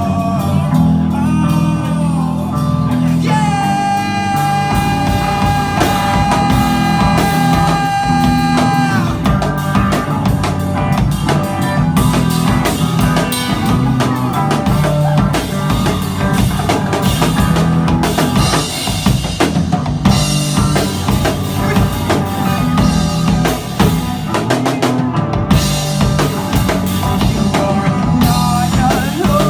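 Live pop-rock band playing an instrumental break: full drum kit with bass drum, bass and a lead instrument. A long held note comes in a few seconds in and lasts about five seconds.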